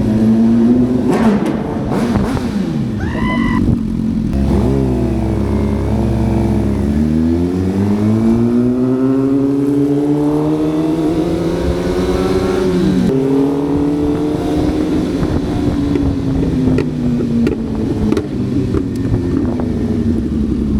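Suzuki GSX-R 750 motorcycle's inline-four engine under way, its pitch climbing under throttle, dropping sharply at a gear change about thirteen seconds in, then rising again and slowly easing off.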